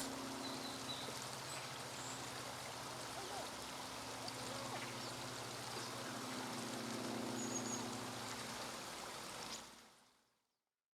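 House sparrows bathing together in shallow water: a steady splashing, trickling wash with a few faint high chirps. It fades out near the end.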